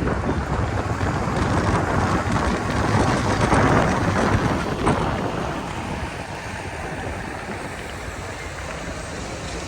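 Rushing noise of wind and rain on the microphone, swelling to a peak a few seconds in and then easing off.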